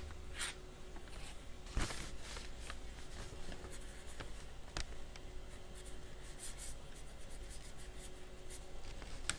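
Soft scratchy brushing of a large wet paintbrush across watercolour paper, dampening an area before paint goes on, with a few light strokes and taps standing out.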